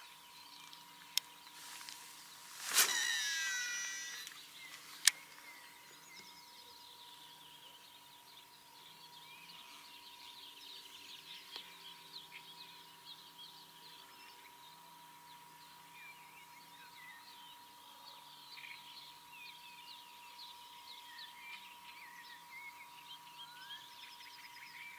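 Birds chirping and singing faintly. About three seconds in there is a brief louder rush, and two sharp clicks come about one second and five seconds in.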